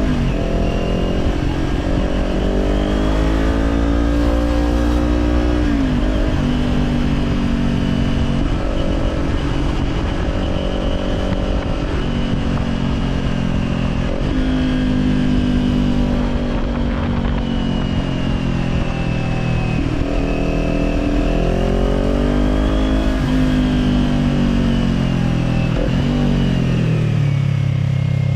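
Kawasaki Z400's parallel-twin engine through an Orion Katya slip-on exhaust, riding under changing throttle: the engine note climbs and falls several times, with sudden drops in pitch such as gear changes make.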